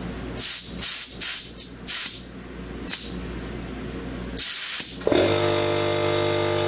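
Compressed shop air hissing out in short spurts at the air fitting on the manifold gauge hose as it is worked onto the AC system's service valve: about six hisses in the first three seconds, then a longer one. About five seconds in, an air compressor starts and runs with a steady hum.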